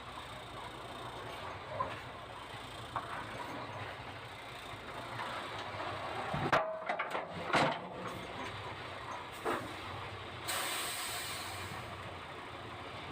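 MAN TGX tractor unit's diesel engine idling, with a few sharp knocks and a cluster of loud clunks around the middle, then a release of compressed air hissing for about two seconds near the end.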